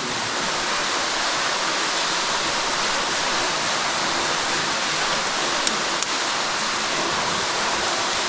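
Steady rushing of a 280-foot underground waterfall in a cave, an even unbroken noise, with two faint clicks about six seconds in.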